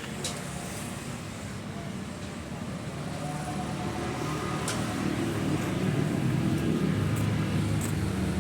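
Ford tractor engine running at a steady low idle, growing louder about three seconds in.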